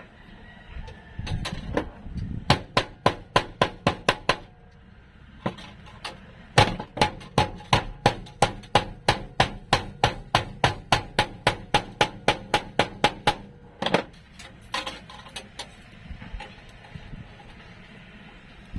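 Hammer striking repeatedly in bursts: a short run of blows early, then a long even run of about three blows a second, then a few scattered blows near the end.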